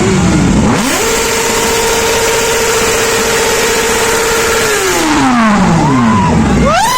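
Superbike engine revved hard. It climbs sharply just under a second in and is held steady at high revs for about four seconds, then falls back. Near the end it is blipped up quickly again.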